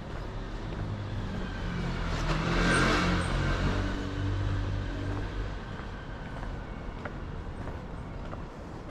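A motor vehicle passes close by: engine hum and tyre noise grow to a peak about three seconds in, then fade away over the next few seconds.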